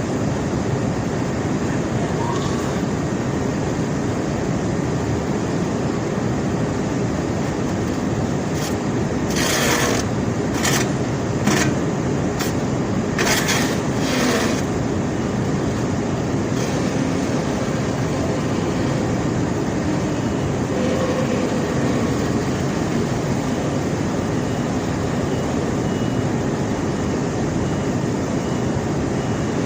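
Conveyor belt carrying rock, a loud steady rumble, with a run of sharp clattering knocks roughly ten to fifteen seconds in.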